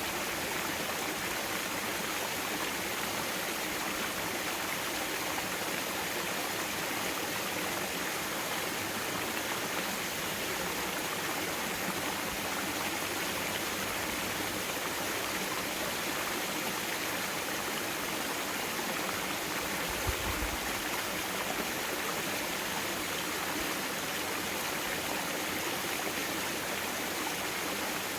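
Mountain valley stream flowing steadily over rocks, a constant rushing of water. There is a brief low thump about two-thirds of the way through.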